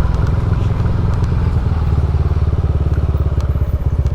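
Motorcycle engine running while being ridden, a steady quick putter of firing pulses.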